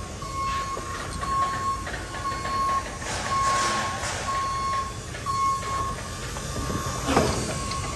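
A vehicle's backup alarm beeping steadily, a single high tone about once a second, over a low engine rumble, with a short rustling noise about three seconds in.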